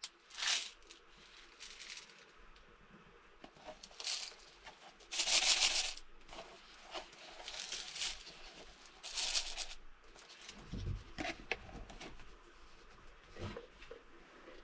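Intermittent rustling and crinkling from something being handled, in several short bursts, with a soft low thump about eleven seconds in.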